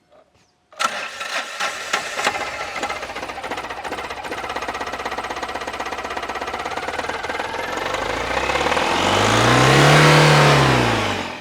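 Small two-cylinder CRDI turbo-diesel engine (800 cc) running with a fast, even beat, then revved up and let back down near the end.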